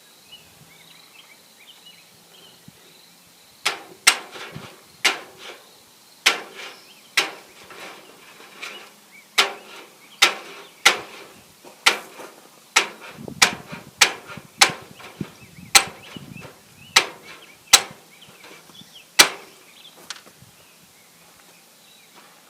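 A hand staple gun firing, about eighteen sharp snaps at irregular intervals of roughly a second, fastening chicken wire to a wooden gate frame.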